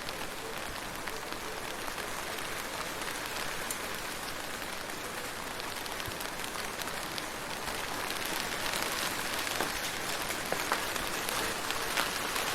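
Steady rain falling: a dense hiss with many scattered sharper drop ticks, growing a little heavier in the second half.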